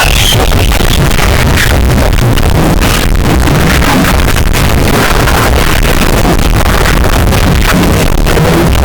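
Loud, heavily distorted and effect-processed audio, heard as a harsh electronic-music-like din with no intelligible words.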